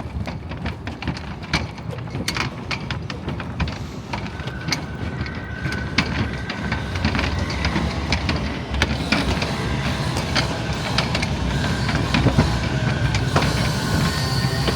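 A train running on rails and drawing closer: wheels clicking and clattering over the track, with a thin high wheel squeal coming in about four seconds in and again near the end, the whole sound growing louder.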